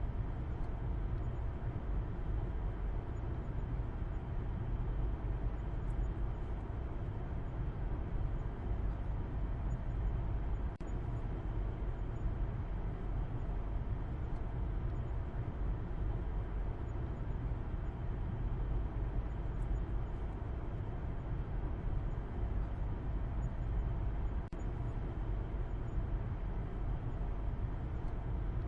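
Car driving at a steady speed: a continuous low rumble of road and engine noise, heaviest in the bass.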